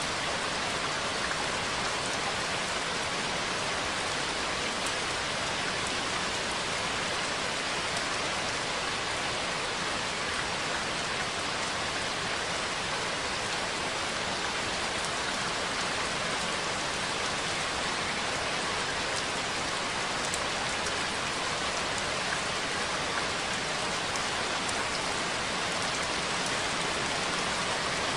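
Steady rain falling: an even hiss with occasional single drops ticking.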